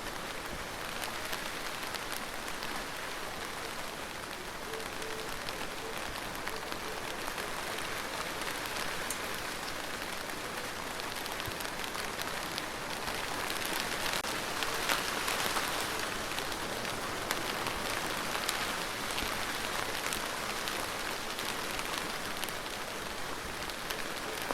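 Steady rain falling, with many separate drops ticking through the hiss; it grows heavier about halfway through, then eases a little.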